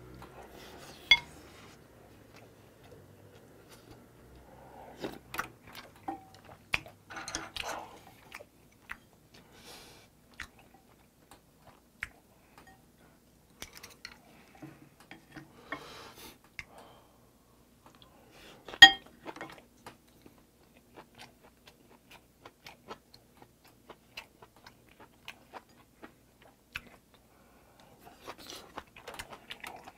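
Close-miked eating: chewing mouthfuls of stewed mustard-leaf kimchi and rice, with scattered light clicks of chopsticks and spoon against the bowls. The loudest sound is one sharp clink about nineteen seconds in.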